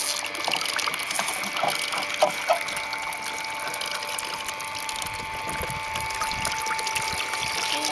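Water pouring and splashing in a plastic toy water-play table, with a few light clicks about two seconds in.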